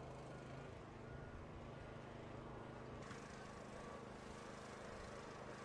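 Faint, steady outdoor background noise with a low, even hum, changing slightly about three seconds in.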